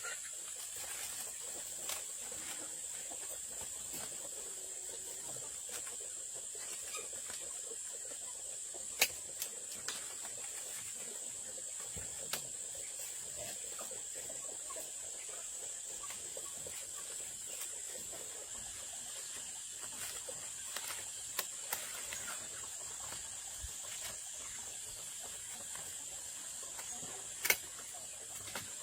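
Steady high-pitched drone of insects, with a few sharp clicks, the loudest about nine seconds in and near the end.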